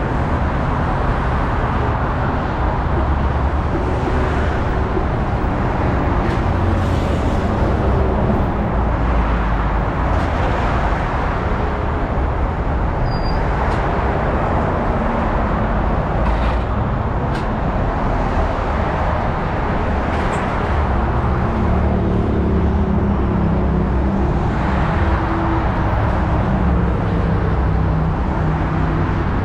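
Car driving at freeway speed: steady tyre and road noise over a low engine hum, swelling briefly several times.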